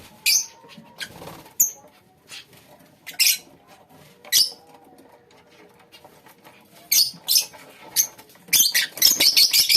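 Lovebirds giving short, shrill chirps at irregular intervals, which run together into rapid chattering near the end.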